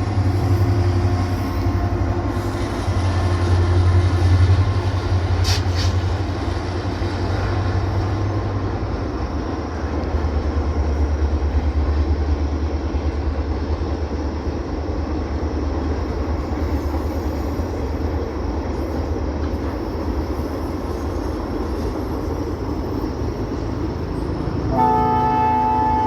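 Indian Railways train running with a steady low rumble, then the locomotive's horn starts a long, steady blast about a second before the end.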